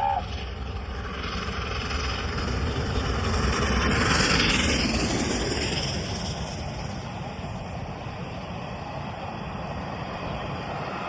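A steam-hauled charter train passing, with a two-tone whistle cutting off at the very start. The sound swells to its loudest about four seconds in, then eases into a steady rumble of the passing coaches.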